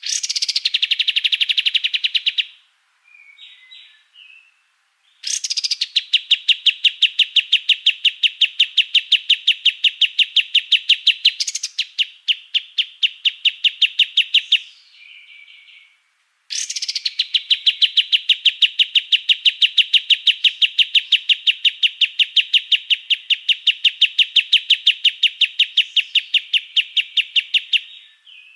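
A songbird delivering long rapid-fire trills of harsh, evenly repeated notes, the 'rough shot' (tembakan kasar) song used to train cage birds. There are three runs: a short one at the start, then two long ones of about ten seconds each, with a few separate short calls in the pauses.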